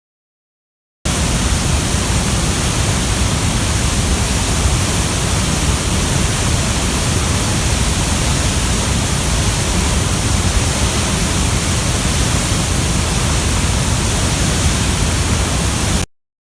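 Waterfall rushing: a steady, dense roar of falling water, heaviest in the low end. It starts abruptly about a second in and cuts off suddenly near the end.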